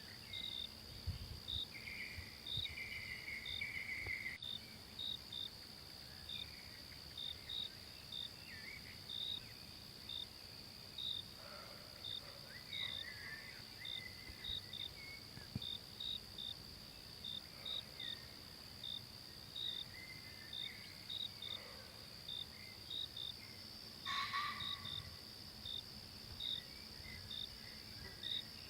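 Forest ambience of insects: a steady high-pitched drone with a short chirp repeating about once or twice a second. Scattered bird calls sound over it, the loudest about 24 seconds in.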